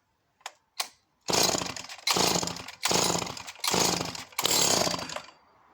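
Vintage Skilsaw 1644 chainsaw's two-stroke engine being pull-started: two light clicks, then five quick pulls on the recoil starter, each one a short burst of the engine turning over without catching.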